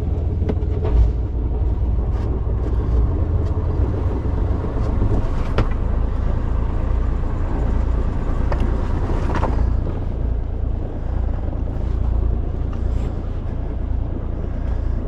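Sailboat's auxiliary engine running steadily, a low rumble under the boat, with a couple of sharp knocks in the middle.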